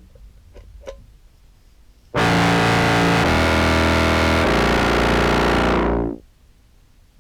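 Contrabass clarinet played through an EHX POG2 octave-down preset into a Behringer Brassmaster fuzz: after a quiet start with a few faint clicks, a loud, heavily distorted low phrase comes in about two seconds in, steps through three pitches and stops about six seconds in.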